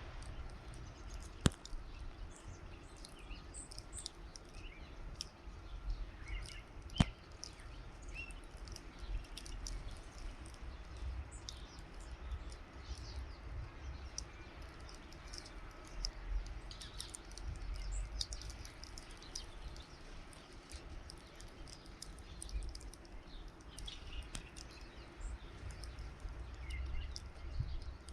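Small songbirds at a feeder giving short, high chirps and calls scattered throughout, over a steady low rumble. Two sharp clicks stand out, one about a second and a half in and one about seven seconds in.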